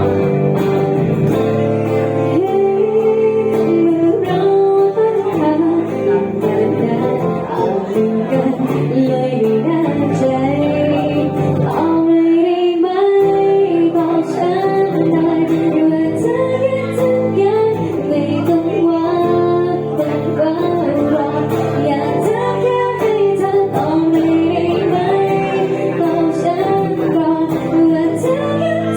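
A song with a woman singing over guitar accompaniment, sung melody held and bending over steady chords.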